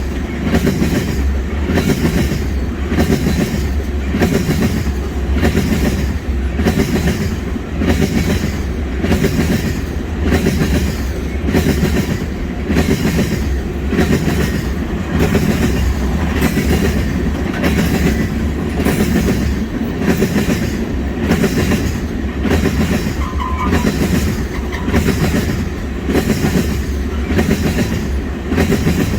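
Wheels of a long freight train of tank wagons clattering over rail joints in a steady rhythm, about one and a half beats a second, over a continuous low rumble.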